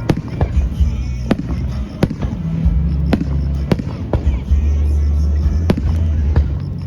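Fireworks display: a string of sharp, irregularly spaced bangs, about one or two a second, over a heavy low rumble.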